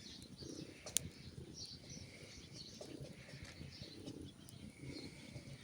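Faint bird calls: soft low notes repeating every half second or so, with scattered high chirps and a single sharp click about a second in.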